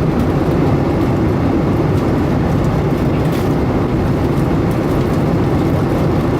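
Steady cabin noise of a Boeing 757-200 in flight at cruise altitude: engine and airflow noise heard from a passenger seat, a deep, even rumble.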